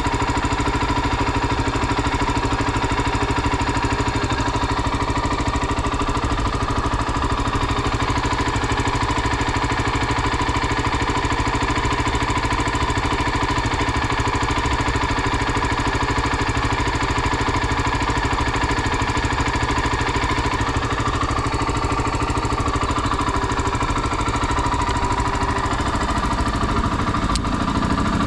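Honda XR 250 Tornado's single-cylinder engine running steadily at an even, unchanging pitch.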